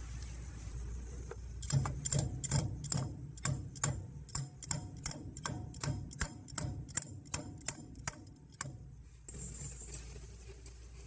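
A run of sharp, evenly spaced knocks, about two to three a second, starting about two seconds in and stopping near nine seconds.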